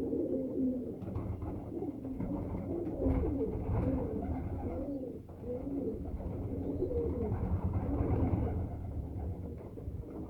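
Several domestic pigeons cooing, their low, wavering calls overlapping one another.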